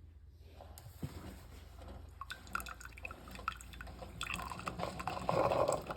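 Keurig K-Café coffee maker running a cleansing brew with no pod, hot water dripping and trickling from the brewer into the cup, growing louder in the last seconds.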